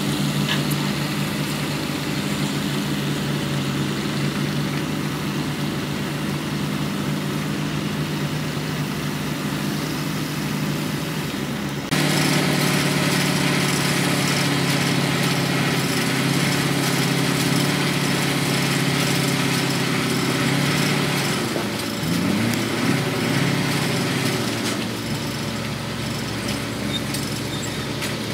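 Diesel engines of heavy construction machinery running steadily. The sound jumps abruptly louder about twelve seconds in, and an engine briefly revs up and back down a little past two-thirds of the way through.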